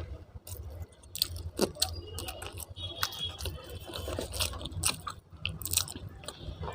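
A person chewing food close to the microphone: irregular wet mouth clicks and smacks, over a low steady hum.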